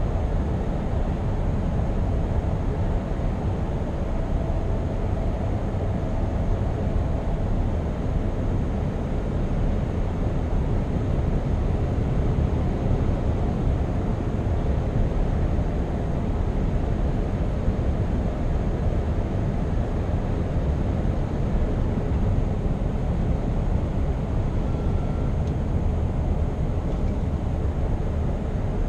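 Scania R520 truck's V8 diesel engine and tyre noise while driving at a steady pace: a continuous low rumble that holds level with no gear changes or revving.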